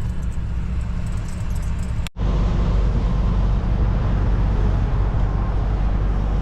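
Steady engine and road rumble inside the cab of a U-Haul moving truck on the highway. It cuts out sharply for a moment about two seconds in, then comes back louder.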